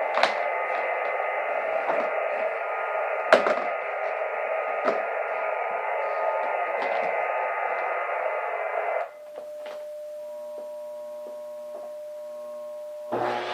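Amateur radio receiver static with scattered crackles, narrow like speaker audio. About nine seconds in it gives way to a steady tone. Just before the end a Mitsubishi vacuum cleaner's motor starts up by itself, a malfunction caused by radio interference.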